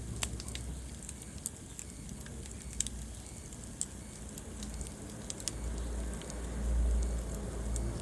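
Wood fire burning in a fireplace: sharp, irregular crackles and pops over a steady low rumble of the flames, which swells for a couple of seconds near the end.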